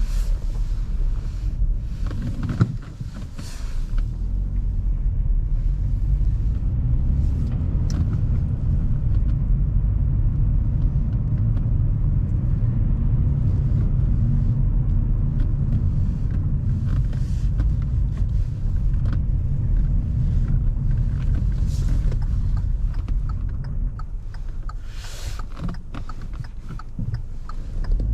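Car interior while driving: a steady low engine and road rumble, with a brief dip about three seconds in.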